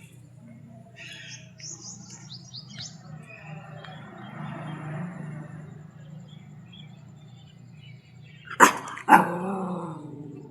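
Dog barking twice in quick succession, about half a second apart, near the end, with small birds chirping earlier on.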